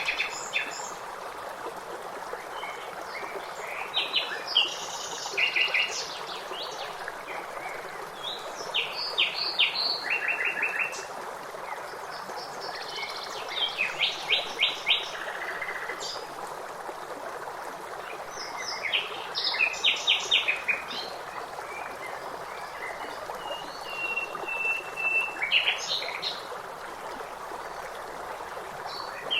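Songbirds singing in bursts of quick, high chirps every few seconds, with one longer held whistle near the end, over the steady rush of a stream.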